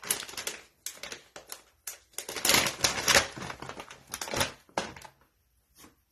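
Irregular clicking, tapping and rustling of craft supplies handled close to the microphone, busiest in the middle and dying away near the end.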